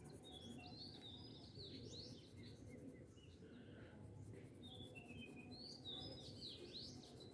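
Birds chirping faintly in the background: a cluster of quick, high chirps at the start, and another about four and a half seconds in.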